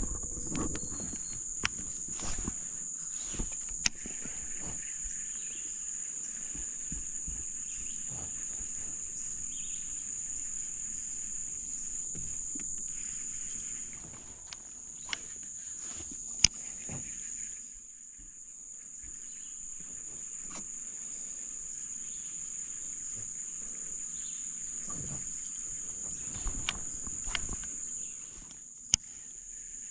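A steady, high-pitched insect chorus, with scattered light clicks and knocks over it.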